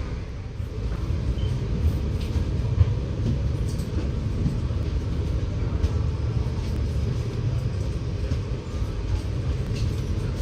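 Scania K94UB bus under way, heard from inside the cabin: a steady low rumble of engine and road noise, with faint rattles and clicks from the bodywork.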